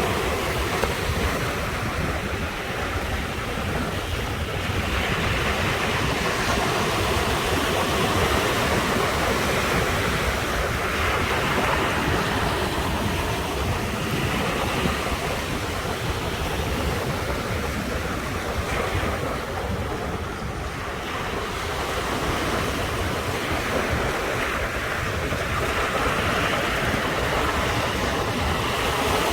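Ocean waves breaking and washing on the shore in a continuous rush, swelling and easing every few seconds, with some wind on the microphone.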